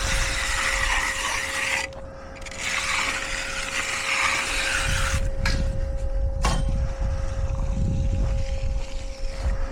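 Steel hand finishing tool, a concrete edger or trowel, scraping along the edge of wet concrete in two long strokes, the first about two seconds and the second about three. A faint steady hum runs underneath.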